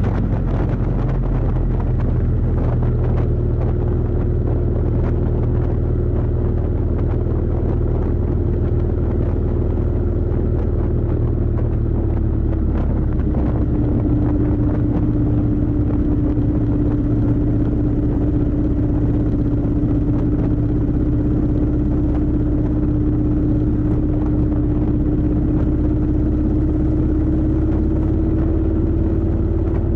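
Kawasaki VN750 Vulcan's V-twin engine running steadily under way on a motorcycle ride. Its note drops about halfway through and then slowly climbs again.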